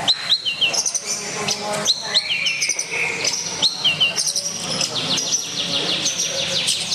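Long-tailed shrike (pentet) singing its learned repertoire among many other songbirds. A whistled note rises and then holds, followed by two quick lower notes, and this repeats about every two seconds over a dense chatter of chirps and a low murmur of voices.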